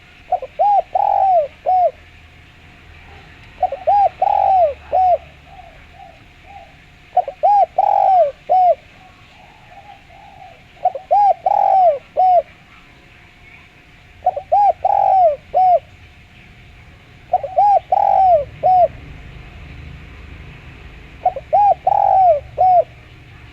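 Spotted dove (derkuku) singing its clear cooing song, a short phrase of several coos repeated seven times, about every three and a half seconds.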